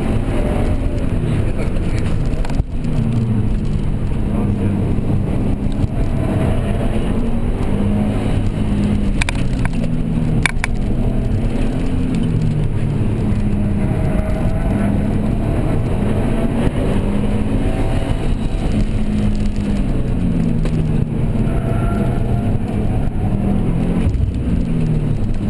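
Car engine being driven hard around a track, its pitch climbing and dropping again and again as it revs up through the gears and falls back on each shift or lift, over a steady rush of road and wind noise. A couple of brief, faint high clicks come about ten seconds in.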